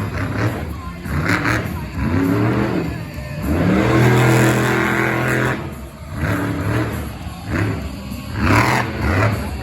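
Monster truck engine revving hard in repeated bursts, each rising in pitch, with one longer high rev held for about two seconds in the middle before it drops off.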